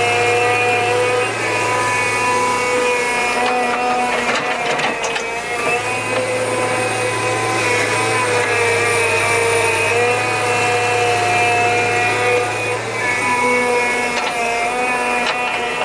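A small engine running steadily, its pitch shifting slightly now and then, with a few clicks or knocks a few seconds in.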